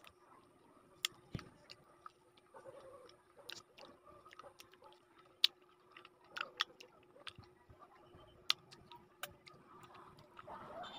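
Close-up mouth sounds of a person eating Bangkok santol pulp: wet smacks and sharp clicks at irregular intervals as the fruit is chewed.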